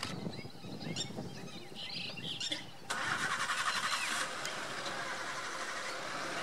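Small birds chirping, then about three seconds in a vehicle engine cranks and starts with a sudden loud rattle, settling into a steady run.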